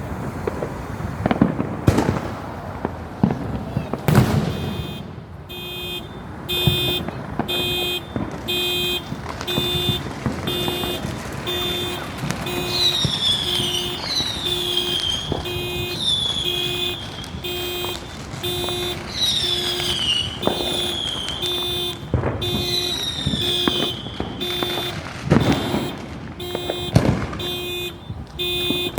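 Firework bangs and pops, with a car alarm going off from about five seconds in. The alarm beeps steadily, about one and a half beeps a second, and then adds repeated falling whoops. More firework bangs come near the end.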